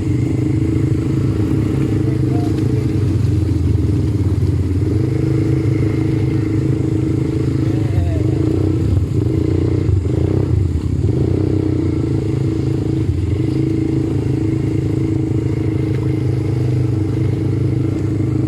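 ATV engine running at a steady pace, with a constant drone that barely rises or falls, as the quad is ridden along the trail.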